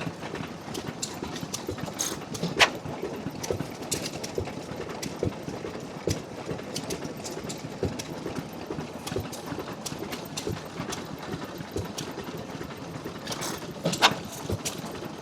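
7 horsepower Tangye oil engine running on kerosene with hot-tube ignition, a steady mechanical running sound broken by sharp knocks at uneven intervals, loudest about two and a half seconds in and near the end.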